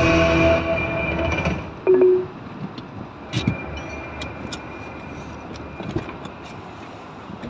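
Music playing in the car stops about a second and a half in, followed by a short low tone and then quiet car background with a few scattered clicks and knocks.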